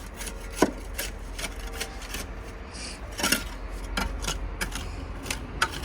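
Irregular scraping and rubbing with scattered sharp clicks and knocks, as of hand work on a hard surface.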